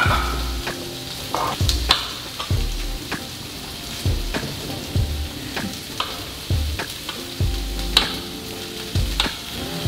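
Food sizzling on a stovetop grill and in a frying pan, with the sharp clicks of a knife striking a plastic cutting board as grapes are sliced in half.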